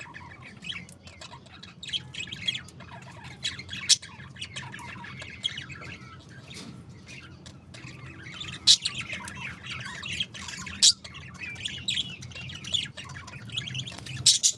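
Pet budgerigars chattering: continuous warbling chirps with sharp squawks standing out, the loudest about nine and eleven seconds in, over a steady low hum.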